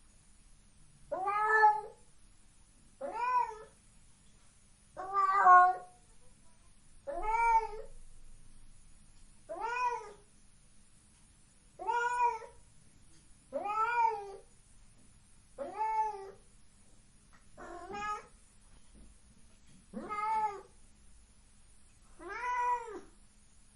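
A cat meowing over and over, eleven meows about two seconds apart, each rising and then falling in pitch.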